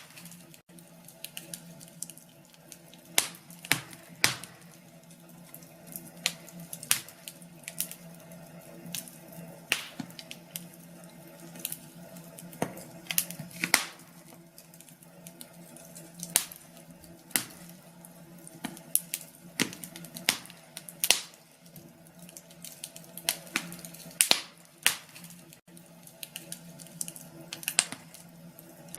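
Wood fire in a fireplace crackling, with irregular sharp pops and snaps, several a second and some much louder than others, over a faint steady hum.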